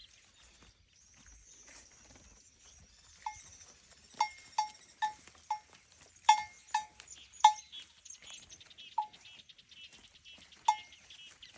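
Bell hung on a grazing herd animal clanking as the animal moves. The strikes are irregular and ring with a clear note: they start about three seconds in, come in a quick run of about eight, then sound only now and then.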